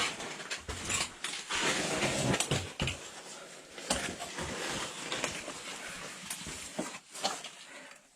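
A caver's clothing and gear scuffing, scraping and knocking against rock while crawling through a tight crack, with irregular clicks and knocks throughout and a busier stretch of scraping about two seconds in.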